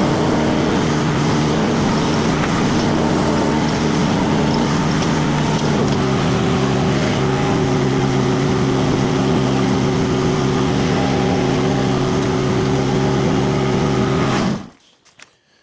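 Rippa RS06 mini skid steer's Kubota diesel engine running steadily under load with the disc mulcher attachment, its pitch shifting slightly about six seconds in. The sound cuts off abruptly near the end.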